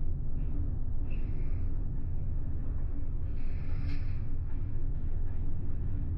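Steady low rumble of the car ferry Ishikari under way at sea, its engines and hull droning, with a few faint, brief hissing washes over it.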